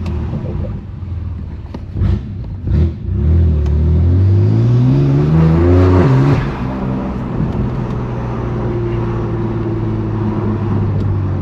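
Straight-piped BMW S55 twin-turbo inline-six in an F80 M3 Competition taking a hard pull. After two brief loud bursts, the exhaust note climbs steadily for about three seconds, drops sharply at an upshift, then settles into steady cruising.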